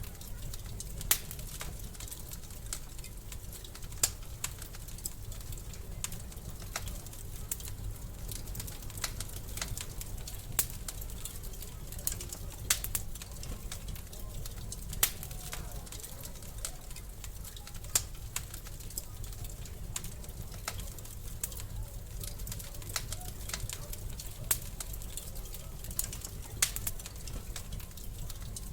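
Wood fire crackling in a fireplace: sharp pops and snaps at irregular intervals, a few much louder than the rest, over a steady low rumble of the flames.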